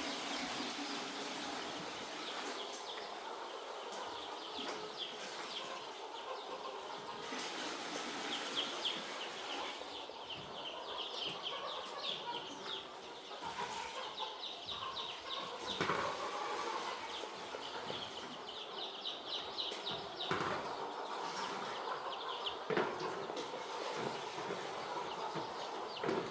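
A flock of poultry chicks peeping: a dense, continuous chatter of short high cheeps. A few sharp knocks come in the second half.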